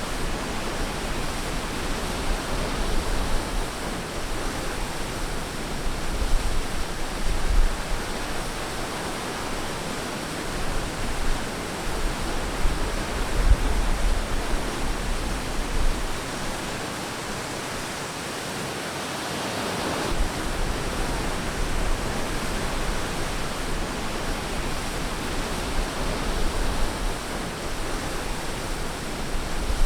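Ocean surf washing onto a beach: a steady wash of waves rising and falling slowly in loudness, with one brighter swell of a breaking wave about two-thirds of the way through.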